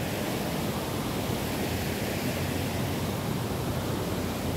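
A steady, even rushing noise outdoors with no distinct events.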